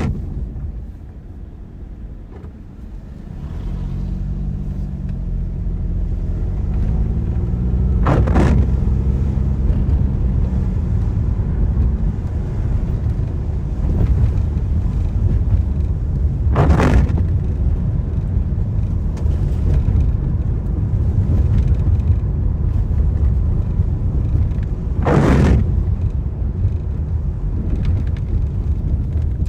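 Car driving in the rain: steady low road and tyre rumble. It eases briefly near the start, then swells as the engine note climbs while the car pulls away. A short windscreen-wiper swish comes about every eight and a half seconds, three times, as on an intermittent wiper setting.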